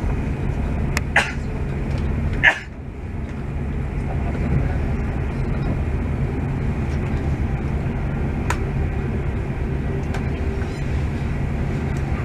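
Steady low rumble of a passenger train running on the rails, heard inside the carriage. A few short sharp knocks sound about a second in and again about two and a half seconds in; the loudest comes at the second point and is followed by a moment of quieter running.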